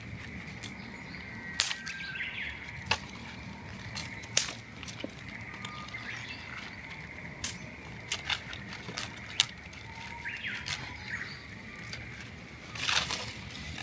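Birds chirping outdoors, with sharp, irregular clicks and pops scattered throughout and a brief rustle near the end.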